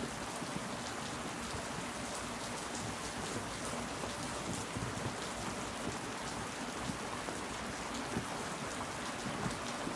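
Steady rain falling, with scattered individual drops hitting close by.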